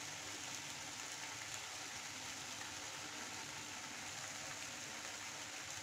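Steady sizzling of penne pasta with carrots and tomato frying in a pan, as an even hiss.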